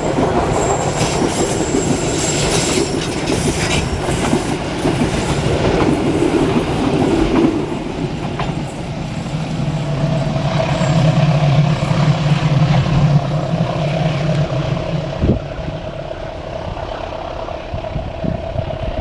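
A train passing, its wheels clattering on the rails, with a steady low hum through the middle of the passage.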